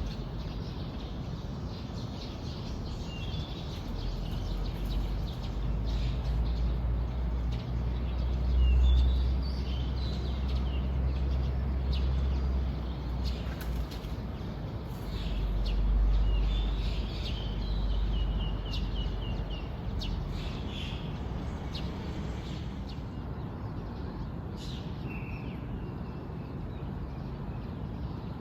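Wild birds chirping and calling, with short high chirps throughout and a quick trilled run of notes a little past the middle. Under them is a low rumble that swells twice, once from about four seconds in and again around the middle.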